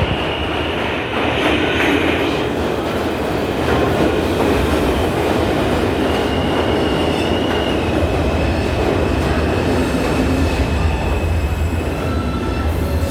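New York City subway train running on the track with a steady rumble, thin high wheel squeal coming and going over it.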